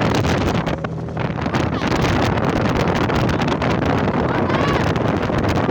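Wind buffeting the microphone aboard a moving boat, over a steady low drone.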